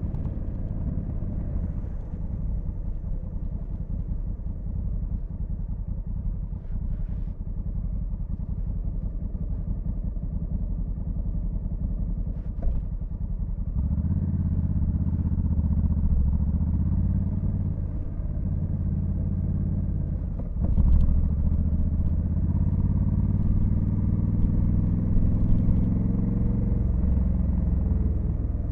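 Honda Africa Twin CRF1100L's parallel-twin engine running under way at low revs, then getting louder about halfway through as the rider accelerates. The engine note dips briefly twice, then jumps and climbs steadily toward the end.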